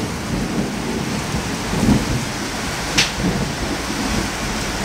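Thunderstorm: steady heavy rain and gusting wind, with low rumbling that swells a couple of times and a single sharp click about three seconds in.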